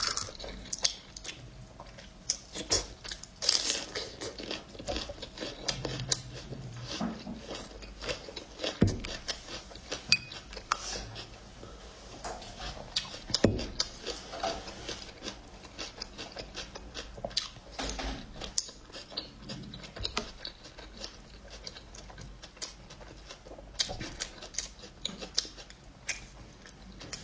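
Close-up mukbang eating sounds: chewing and slurping spicy instant fire noodles, with irregular clicks of utensils against the bowl.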